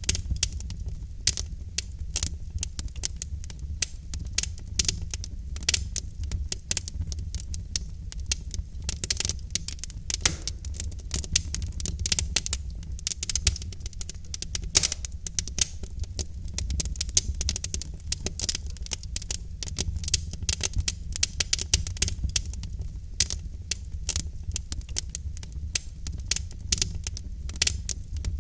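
Wood fire of burning logs crackling continuously: many sharp, irregular pops and snaps over a steady low rumble of the flames.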